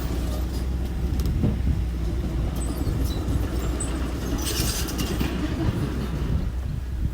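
Engine of a small earthmoving machine running steadily with a low rumble, with a brief hissing, scraping burst about four and a half seconds in.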